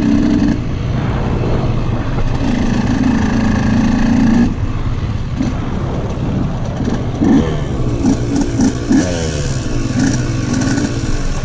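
Motorcycle engine running at a steady speed, then a series of short revs rising and falling about seven to nine seconds in, settling to a lower steady idle near the end.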